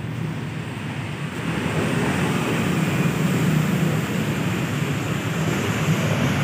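Steady rumble of passing motor traffic with wind on the microphone, growing a little louder about two seconds in.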